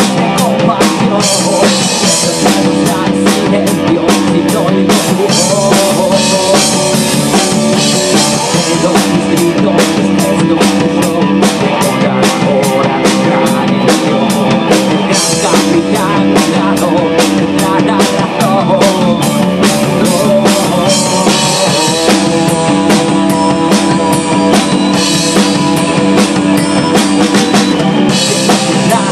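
Rock song in Spanish, instrumental section: a full drum kit keeps a steady beat with frequent cymbal hits under sustained distorted guitars and bass.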